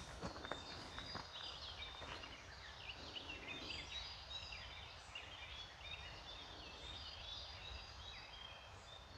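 Several forest birds singing and chirping, with many short, overlapping high notes, over a low steady rumble. A few footsteps on the path fall in the first second or so.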